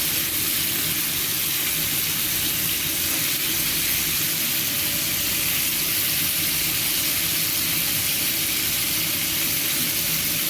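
Chicken wings frying, a steady sizzling hiss.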